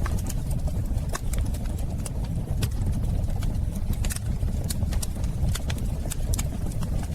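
Wood fire in a fireplace crackling, with sharp irregular snaps several times a second over a steady low rumble of the burning.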